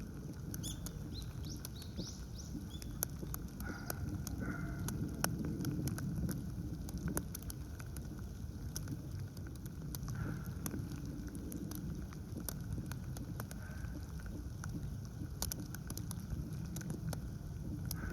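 Outdoor ambience: a steady low rumble with scattered small clicks and taps. A few short, high, rising bird chirps come in the first two seconds.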